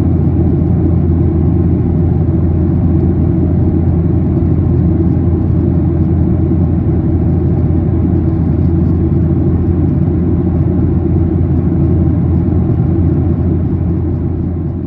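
Steady cabin drone of a Boeing 737-800 in cruise: the CFM56-7B turbofans and airflow over the fuselage, heaviest in the low end. It fades away near the end.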